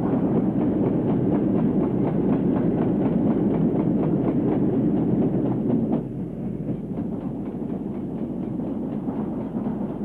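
Train running on the rails, a steady rumble with the clickety-clack of wheels over rail joints; it drops suddenly in level about six seconds in.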